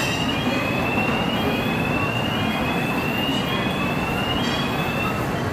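Small passenger train running, with a steady rumble and a high thin whine that rises in pitch, drops back and rises again about once a second.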